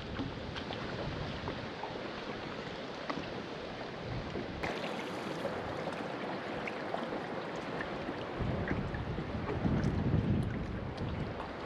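Wind and water noise on a lake, with scattered small splashes or ticks. Wind buffets the microphone harder from about eight seconds in.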